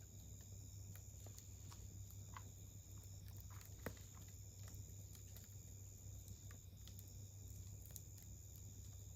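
Faint crackling of a wood campfire: scattered small pops and ticks, with one sharper pop about four seconds in. A steady high thin tone and a low hum run underneath.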